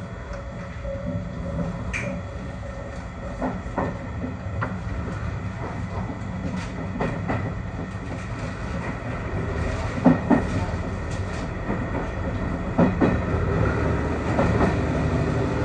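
A JR Kyushu YC1 hybrid diesel railcar running, heard from inside the front of the car, getting steadily louder as it picks up speed. The wheels clack over rail joints a handful of times, sharpest about ten and thirteen seconds in.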